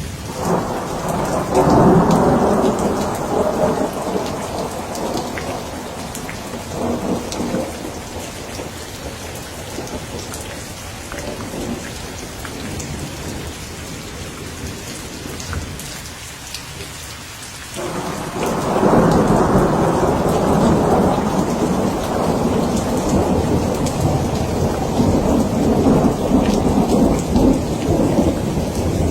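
Steady rain with scattered drops pattering, and rolling thunder: one long rumble in the first few seconds that dies away, then another that breaks in about two-thirds of the way through and keeps rolling.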